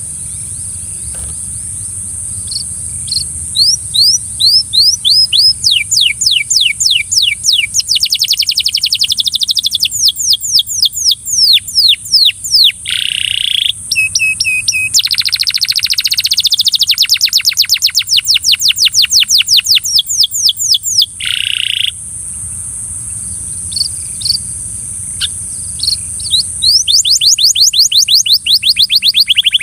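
A canary singing in fast trills, long rolls of quickly repeated down-slurred high notes at several different speeds. It pauses for a few seconds about three quarters of the way through, then starts another trill near the end, over a steady high hiss.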